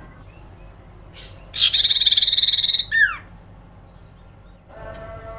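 Common iora (cipoh) giving a harsh, rapid rattling chatter that starts about a second and a half in and lasts just over a second, followed by a short down-slurred note. Fainter pitched calls begin near the end.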